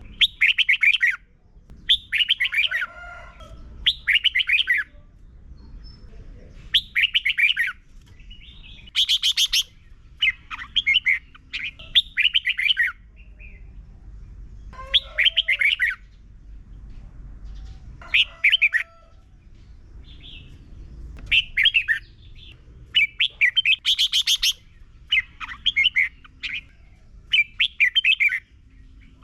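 Red-whiskered bulbul singing: short, quick, warbled phrases about a second long, repeated every one to two seconds, in the 'double' song used to teach caged bulbuls.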